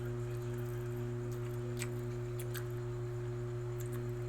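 A steady low electrical hum with a few faint, light clicks about two seconds in.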